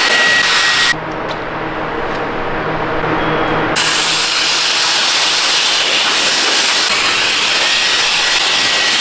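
High-speed handheld turbo blower running, a steady loud rush of air with a faint high whine. About a second in it turns duller and quieter with a low motor hum, then returns to full blast just under four seconds in and holds steady.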